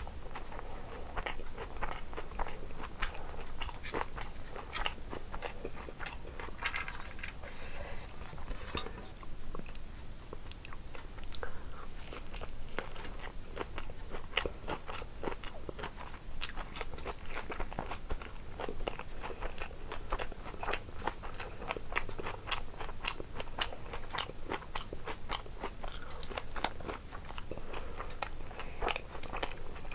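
A person chewing and biting crunchy fried food, with many irregular crisp crunches and wet mouth clicks.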